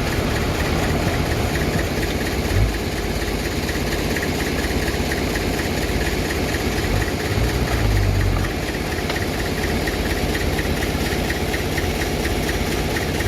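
Bulldozer's diesel engine running steadily with a fast, even ticking over its low rumble. There is a brief thump about two and a half seconds in, and the rumble swells briefly around eight seconds.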